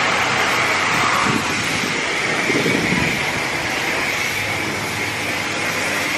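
Steady, loud hiss of a high-pressure water spray washing a car.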